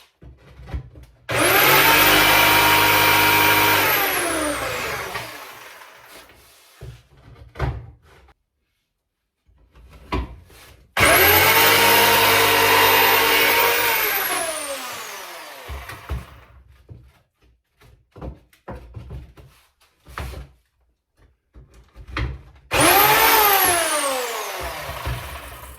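Electric power saw cutting timber framing pieces to length three times: each time the motor starts suddenly, runs for a few seconds, then winds down with a falling whine, the last run shorter than the first two. Scattered knocks of wood being handled between the cuts.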